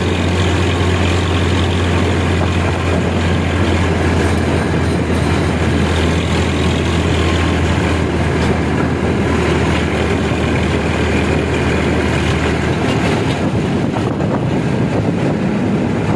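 Tractor engine running steadily with a deep hum that drops off about three-quarters of the way through.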